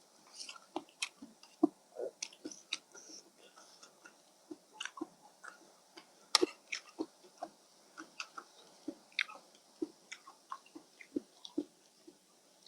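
Close-miked chewing of rice noodles in fish curry: irregular wet mouth smacks and sharp clicks, several a second.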